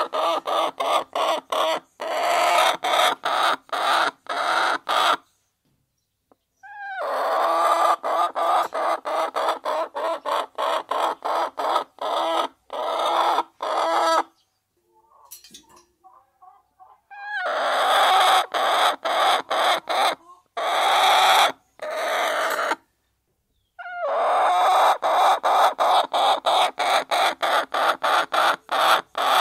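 A flock of hens clucking as they feed, with a rapid run of short sharp sounds like pecking at feed. The sound cuts out abruptly three times: about a third of the way in, around the middle, and about three quarters of the way through.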